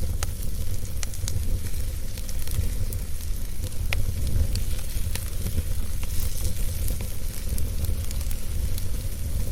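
Wood fire burning in a fireplace: a steady low rumble and hiss with many scattered sharp crackles and pops.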